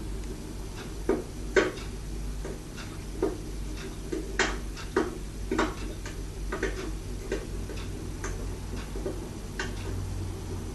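Wood fire in a homemade fireplace crackling, with irregular sharp pops and snaps about once or twice a second.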